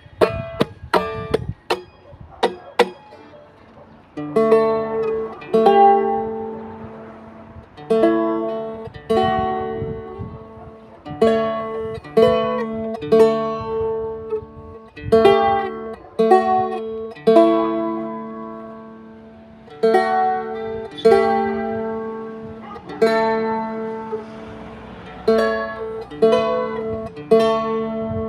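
Music on a plucked string instrument: a few quick strums at the start, then chords struck about once a second, each ringing and fading away.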